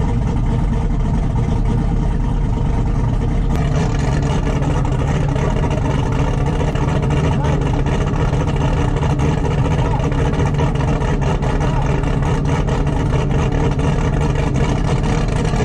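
A vehicle engine idling steadily, a constant low drone.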